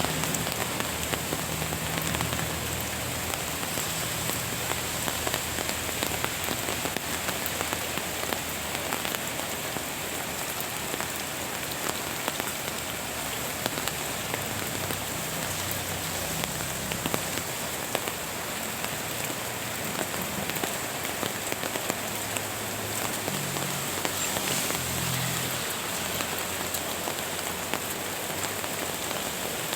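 Steady rain falling on plants and the ground: an even hiss with many separate drops ticking close by.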